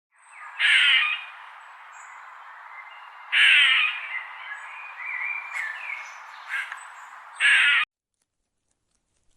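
A bird giving three loud, harsh cawing calls about three seconds apart, over a steady background hiss, cut off abruptly near the end.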